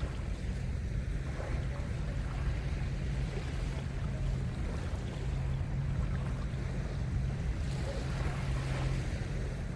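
Seaside ambience: waves washing in with wind on the microphone, over a steady low hum.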